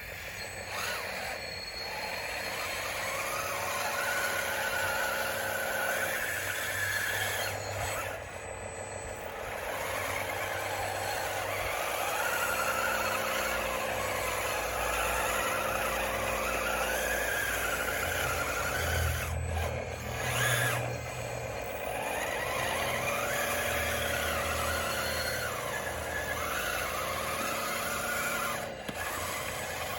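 RC bulldozer's electric drive motors and gearboxes whining, the pitch dipping and rising again and again as the machine speeds up, slows and changes direction.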